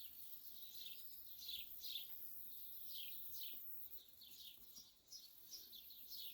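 Small birds chirping faintly: a steady run of short, high, falling chirps, about two a second.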